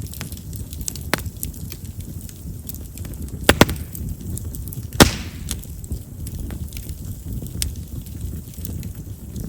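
Chestnut-wood campfire burning with a low rumble of flame and scattered crackles, with a sharp double pop about three and a half seconds in and a louder single pop a second and a half later as the wood bursts. Chestnut's large vessels make it a wood known for popping.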